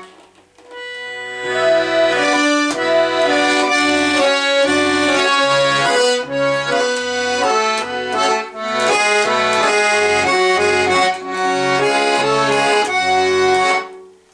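Accordion playing the instrumental close of a Russian song: a melody with a repeating bass-note pattern under it. It comes in after a short pause about a second in and stops abruptly near the end.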